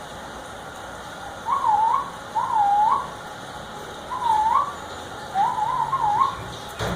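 A series of five clear whistled notes, each dipping and then rising in pitch, about half a second long and roughly a second apart. A short knock comes near the end.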